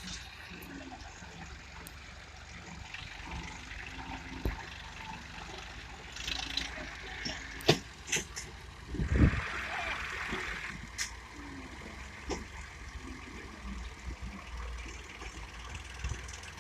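Tractor engine running steadily, with scattered clicks and knocks, and a thump followed by a brief hissing rush about nine seconds in.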